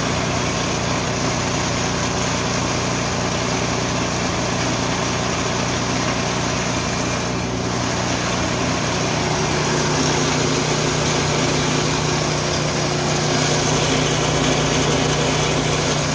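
Richi KD 350 mini rice and corn milling machine running steadily, with a small engine's hum under a loud, even hiss.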